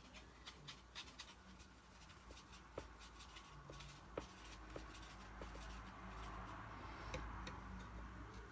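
Faint taps and scratches of a paintbrush mixing watercolour paint on a palette: a string of small clicks in the first half, then a soft scrubbing hiss.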